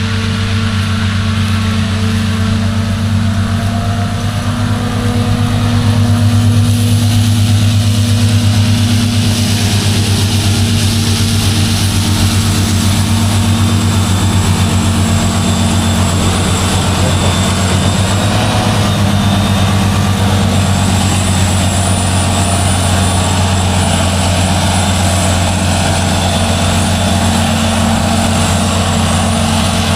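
Claas Jaguar 970 self-propelled forage harvester running flat out while chopping and blowing triticale into a trailer: a loud, steady heavy engine drone with a thin high whine above it, getting louder about six seconds in.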